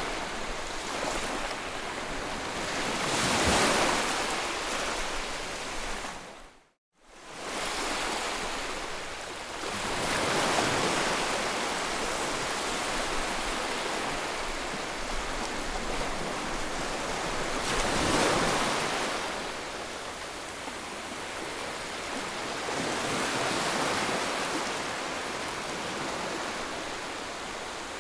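Ocean surf: waves breaking and washing in, swelling and easing every six or seven seconds, with the sound cutting out briefly about seven seconds in.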